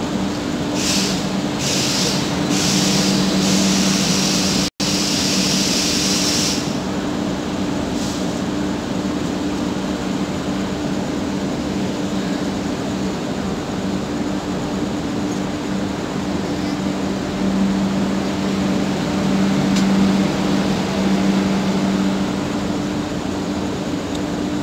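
Sanghamitra Express coaches rolling past the platform: a steady rumble of wheels on rail with a continuous low hum. Several short hisses from about one second in run into a longer hiss that stops at about six and a half seconds. There is a split-second dropout near five seconds.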